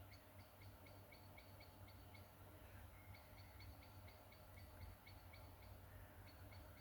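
Faint bird chirping: runs of short, evenly spaced high chirps, about four a second, with brief pauses, over a low steady rumble.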